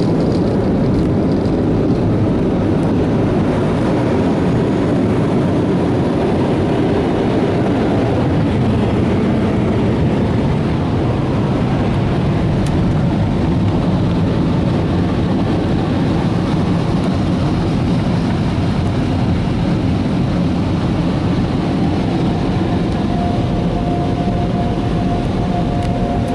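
Automatic car wash air dryer blowers running, a loud steady rush of air as they pass back over the car. A thin steady whine joins near the end.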